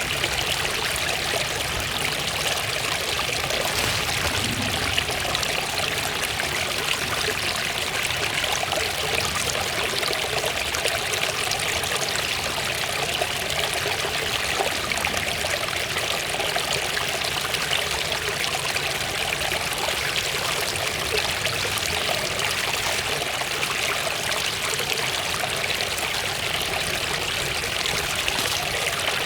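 Small waterfall splashing and running steadily, an even rush of water with no change in level.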